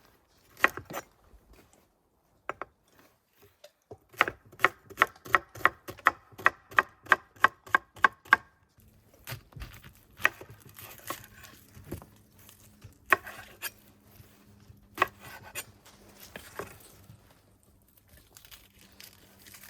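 Knife chopping vegetables on a cutting board: a run of quick, even chops, about four a second, from about four seconds in to about eight, then slower scattered cuts.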